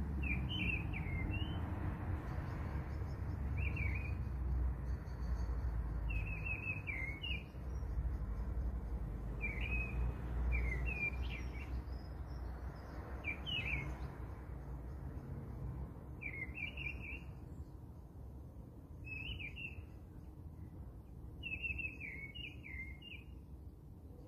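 A bird chirping in short, quick phrases, repeated every two to three seconds, over a steady low rumble that weakens in the second half.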